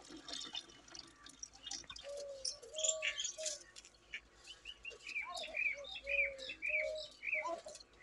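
Birds chirping and calling: many short high chirps, thicker in the second half, among repeated lower, arching calls.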